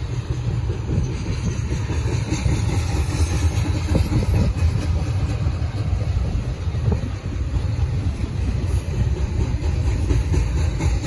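BNSF double-stack intermodal freight train rolling past: a steady low rumble of the well cars running on the rails.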